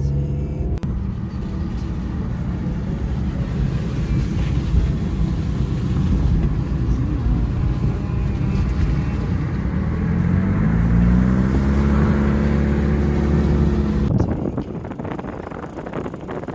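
Car driving, with low engine and road rumble; the engine note rises about ten seconds in as the car speeds up, then holds steady until the sound drops off sharply near the end.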